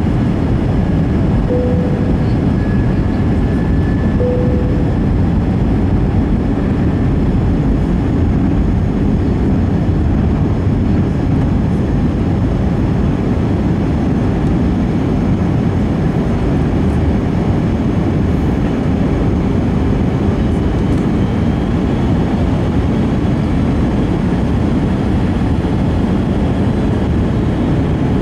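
Steady engine and airflow noise inside the cabin of an Airbus A320 with IAE V2500 engines, on its descent. Two short tones sound a couple of seconds in.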